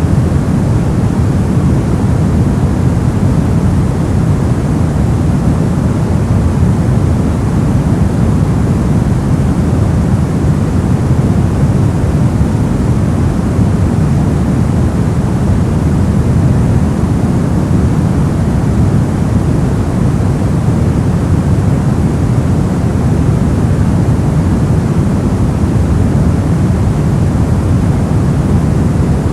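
Steady, unchanging noise of a sleep-aid noise track, deep and rumbling with only a little hiss on top, with no rhythm and no events.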